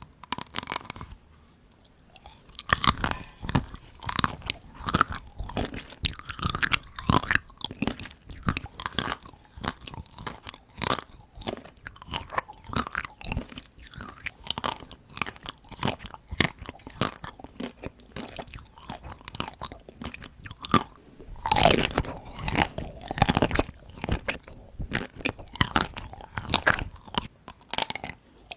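Chocolate-coated ice cream being bitten and chewed, the hard chocolate shell crunching and crackling in quick, irregular crisp snaps. About three quarters of the way through comes a louder run of crunches.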